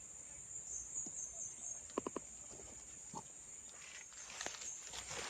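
Steady, high-pitched drone of insects, with three quick soft clicks about two seconds in, another a second later, and some rustling near the end.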